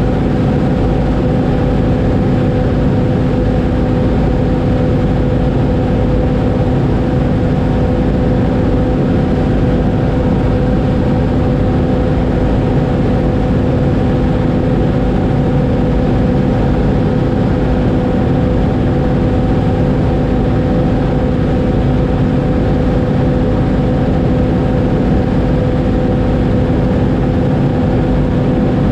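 Oliver 7300 combine running steadily while cutting wheat: a constant loud engine and machinery drone with a steady hum.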